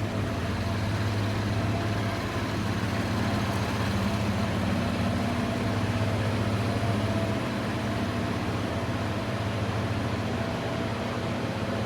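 2019 Chevrolet Colorado Work Truck's engine idling steadily with an even low hum.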